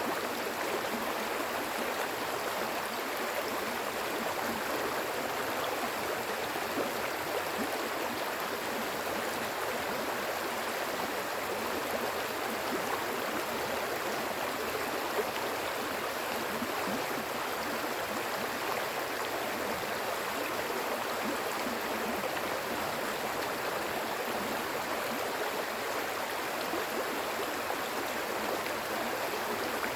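Water flowing steadily in a stream, an even, unbroken rush.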